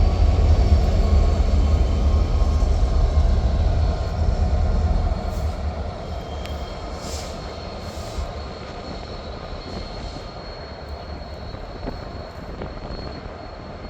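A train rolling along the tracks with a heavy low rumble that dies away after about five seconds. A faint high wheel squeal runs under it.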